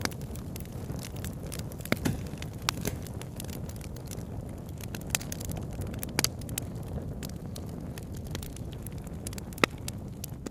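Campfire crackling with scattered sharp pops, a few louder ones about two, six and nine and a half seconds in, over a steady low rush of river water.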